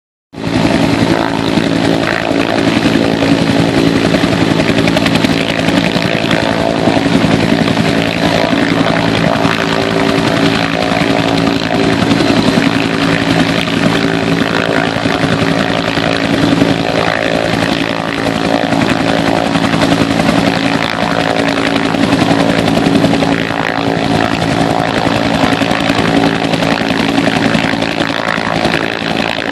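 Bell UH-1 Huey and AH-1 Cobra military helicopters running loud and steady, a turbine hum with the rapid beat of their two-bladed rotors.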